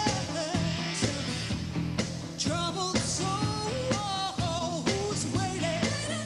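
Live pop-rock band playing with a woman singing lead: a sung melody over bass and a steady drum beat.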